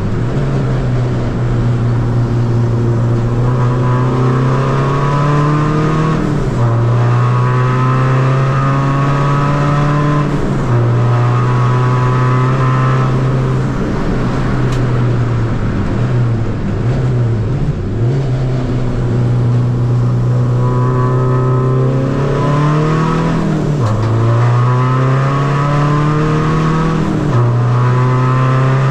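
Tuned 2.0 common-rail diesel engine of a Seat Ibiza FR pulling hard through a short-ratio gearbox, its pitch climbing steadily and dropping sharply at each of several quick upshifts. About halfway it slows, with the pitch falling and rising through downshifts, before accelerating again.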